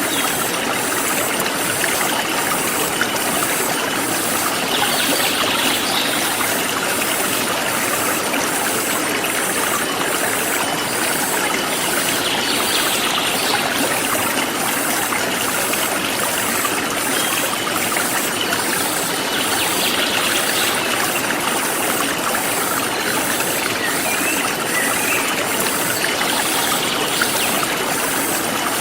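A forest stream flowing steadily, an even rush of water, with insects chirping high above it in a steady pulse of about one and a half chirps a second.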